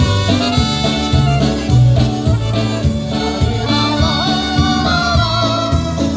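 Live polka band playing the bouncy instrumental opening of a polka, a steady oom-pah bass stepping on the beat under the melody.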